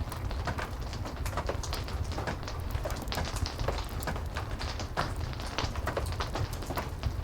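Heavy rain with a crackling wood fire: a steady low rumble and rain hiss, dotted with many small sharp crackles and drips.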